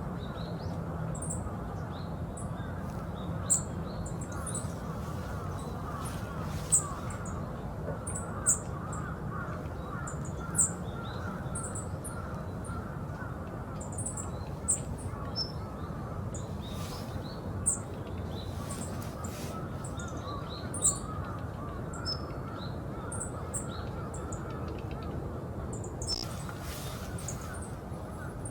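Yellow-throated buntings giving short, high-pitched calls, single notes scattered irregularly every second or two, over a steady low background rumble.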